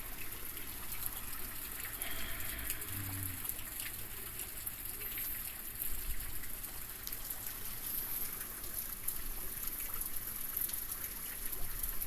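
Steady typhoon rain falling, with many small drips and patters over a continuous wash of water noise.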